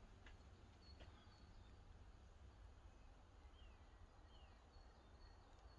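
Near silence: a faint steady low rumble with a few distant bird chirps, including two short falling calls near the middle.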